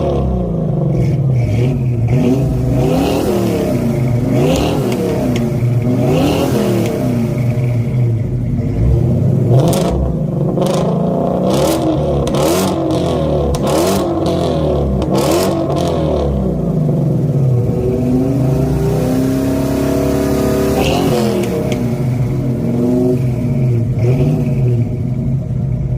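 Ford Mustang V8 engines, a 1965 Fastback and a 2017 Shelby GT350, revved hard again and again, the pitch climbing and dropping every second or two. Several sharp cracks come in the middle stretch.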